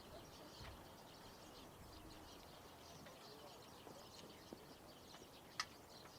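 Near silence: faint open-air background with scattered short high chirps, and one sharp click about five and a half seconds in.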